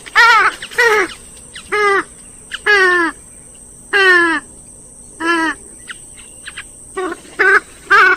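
Grey-headed swamphen calling over and over: about nine short, loud, wavering calls, each sliding down in pitch, roughly one a second with a pause of over a second in the middle.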